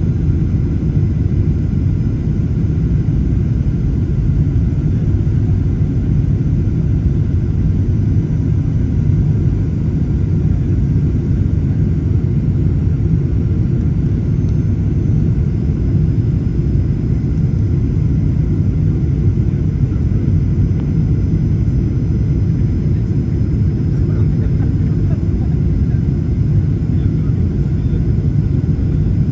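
Steady cabin noise inside a Boeing 737-800: an even, unchanging low rumble from its CFM56 engines, with faint steady whining tones above it.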